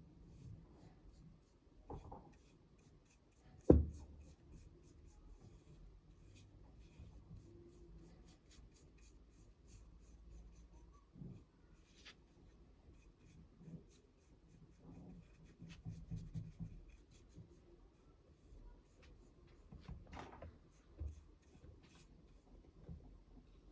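Soft, intermittent scraping and rubbing of hand work on an old rusty iron, with one sharp knock about four seconds in and a few lighter clicks later.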